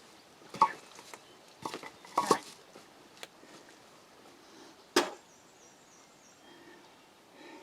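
A handful of sharp wooden knocks at irregular intervals, the loudest about five seconds in: pieces of firewood knocking together as they are handled.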